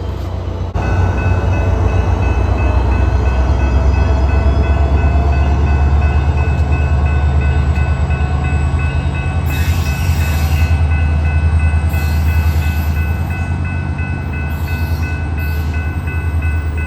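SunRail commuter train passing, its diesel locomotive pushing at the rear with a steady low engine drone, and wheel and car noise surging several times over the second half. Steady high-pitched tones ring over it from about a second in.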